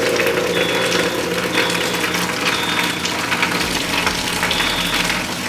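Water rushing steadily from a discharging fire sprinkler, with a high beep repeating about once a second.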